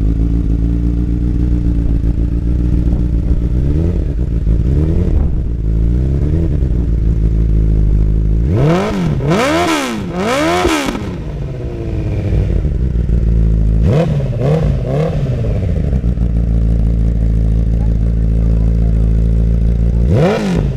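2008 Honda CBR1000RR's inline-four engine idling through a custom exhaust, with the throttle blipped several times. There are two small blips, then two big revs that rise and fall about nine to eleven seconds in, a quick cluster of revs around fourteen seconds, and one more rev near the end.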